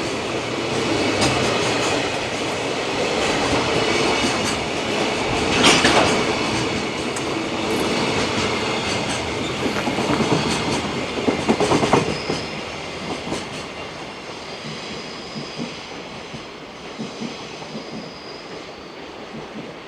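Container freight train wagons rolling past on the rails, wheels clacking over rail joints with sharp clicks, loudest around the middle. In the second half the rumble fades away while a thin high wheel squeal sounds on and off.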